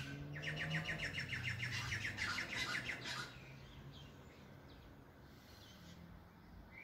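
A bird calling: a fast run of repeated chirping notes, about eight to ten a second, lasting about three seconds, then stopping.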